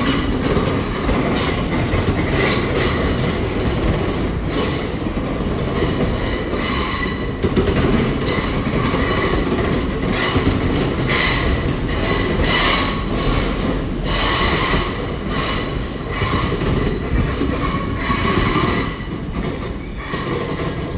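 A Class 800 Intercity Express Train moving along the platform road with its wheels squealing on the rails. It clicks irregularly as it crosses rail joints and points.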